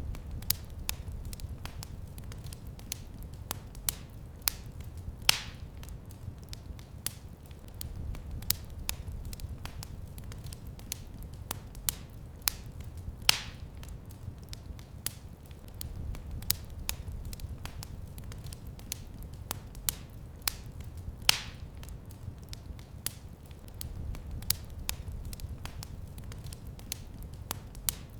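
Wood fire crackling in a fireplace: many small crackles and a few louder pops over a low, steady rumble of the flames that swells every eight seconds or so.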